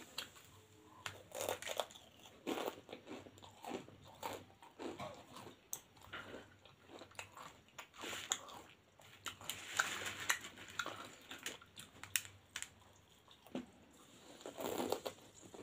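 A person chewing mouthfuls of bhujia, a crisp fried gram-flour noodle snack: irregular crunching throughout.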